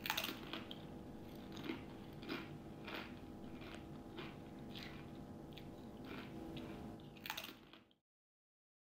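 A person chewing crunchy Doritos tortilla chips: faint, regular crunches about every half second, which cut off suddenly near the end.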